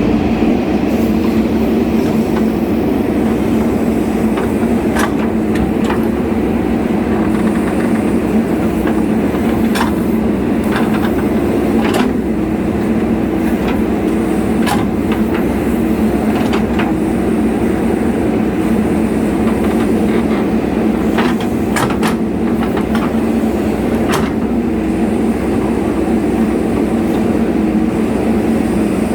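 A heavy diesel engine runs steadily with an unchanging hum, with scattered sharp metallic clanks and knocks.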